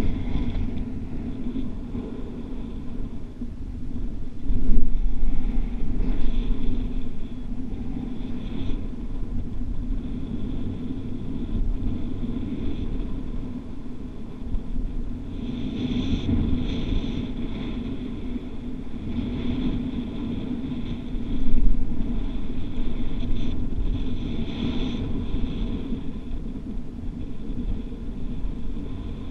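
Strong wind buffeting the microphone: a steady low rumble that swells in gusts, loudest about five seconds in and again past the twenty-second mark.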